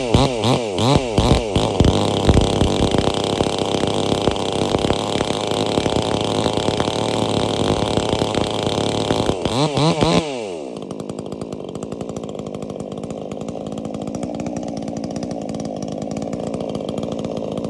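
PROYAMA 68cc two-stroke chainsaw engine revved in quick throttle blips, then held at high revs, falling back to a steady idle about ten seconds in. The new saw runs well with good throttle response.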